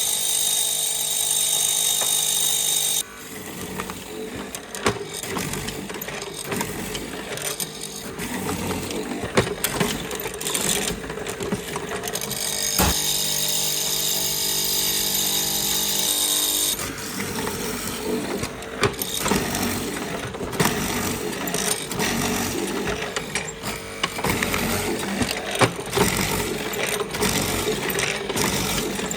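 Woodworking power tool running in two steady spells, one at the start that cuts off after about three seconds and another in the middle. Between and after them come irregular knocks, clicks and scraping from hand work on the wood.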